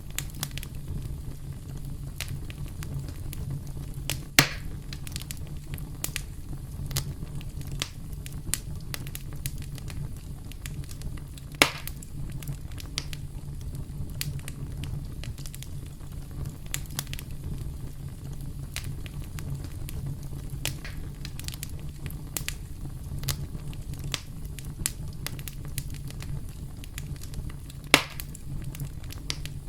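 Campfire burning and crackling, with constant small snaps of burning wood over a low steady rumble. Three louder pops stand out, at about four, twelve and twenty-eight seconds in.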